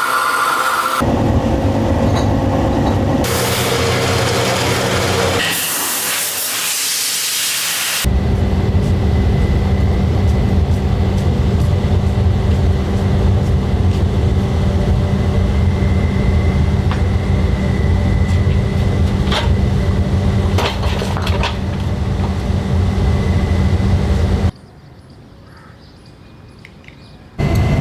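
Industrial machinery noise in several abruptly cut segments. The longest is a steady low machine hum with a thin high whine and a few sharp clicks. About three seconds before the end it drops to a much quieter sound, then the loud noise returns.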